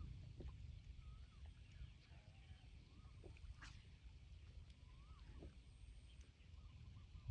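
Near silence over open wetland: faint, short whistled bird calls that rise and fall come every second or so over a low rumble, with a single click about three and a half seconds in.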